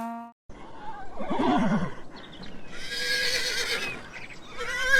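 The end of a cow's moo cuts off just after the start, then a horse whinnies: a shorter call about a second in, a long, high, quavering whinny around three seconds in, and another starting near the end.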